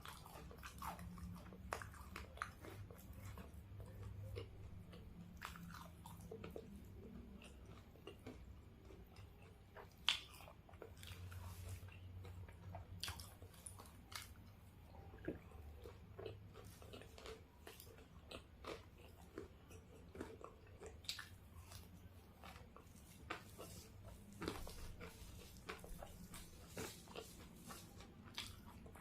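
Close-miked biting and chewing of fried chicken, with a run of small crunches and one sharper, louder click about ten seconds in.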